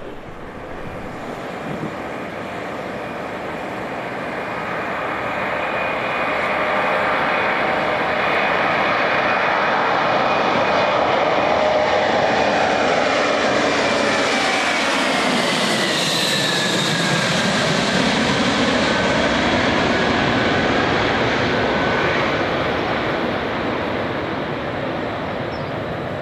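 Boeing C-17A Globemaster III's turbofan jet engines passing close by: the jet noise builds over the first several seconds, and engine whines fall in pitch as the aircraft goes past a little over halfway through, then the sound eases off slightly.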